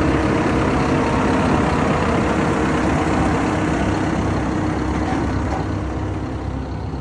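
A large engine running steadily at idle, slowly growing fainter.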